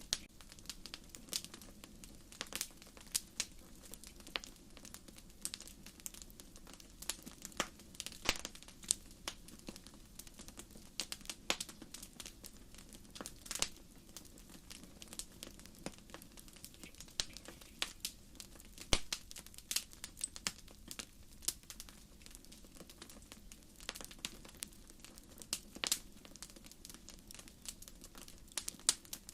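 Wood campfire burning, with a steady low hiss under frequent irregular crackles and sharp pops as the firewood snaps.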